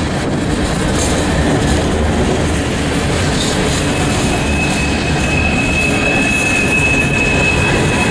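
Empty coal hopper cars rolling past close by, their steel wheels rumbling over the rails. About halfway through, a thin, steady, high-pitched wheel squeal joins in for a few seconds.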